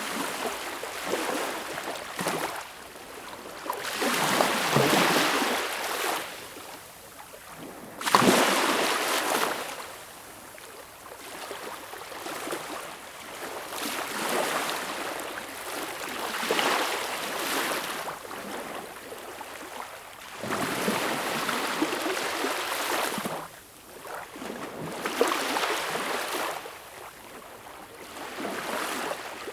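Sea waves breaking and washing ashore, the surf swelling and fading every few seconds. The sharpest, loudest break comes about eight seconds in.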